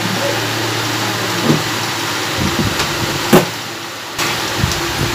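Electric fan running steadily, its air noise washing over the microphone, with a few sharp clicks and taps; the loudest comes a little past the middle.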